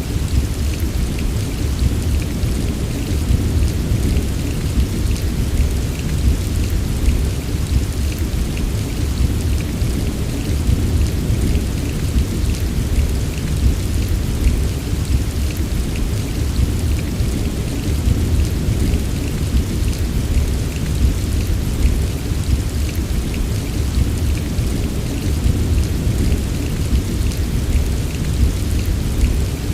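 Steady heavy rain: a dense hiss of drops pattering on surfaces over a continuous deep rumble, with no single thunderclap standing out.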